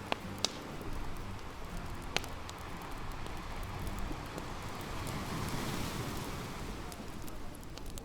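Beach bonfire crackling, with a few sharp pops in the first couple of seconds, over a steady wash of surf that swells briefly a little past the middle.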